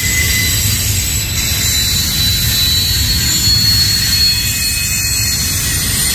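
Double-stack intermodal train rolling past on its container well cars: a steady, loud rumble of steel wheels on rail with a thin, high wheel squeal above it.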